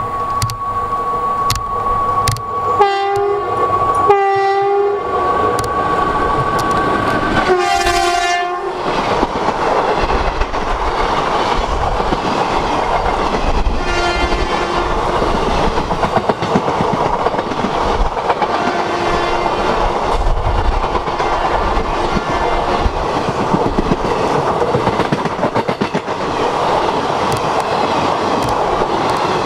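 Electric locomotive's horn sounding two short blasts and then a longer one as the train approaches, followed by the loud rumble and clickety-clack of a passenger train's coaches passing at speed. Fainter horn sounds come through the rumble twice later on.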